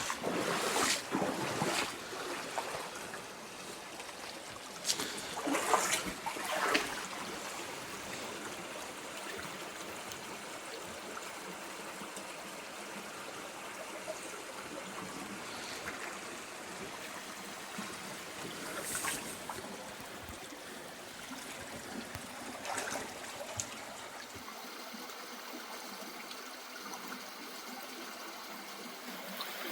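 Shallow creek water trickling and running over a solid bedrock bed, with a few louder splashes of boots stepping in the water, the strongest about five to seven seconds in.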